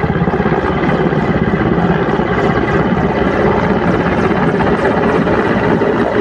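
Helicopter flying overhead, its rotor beating rapidly and steadily.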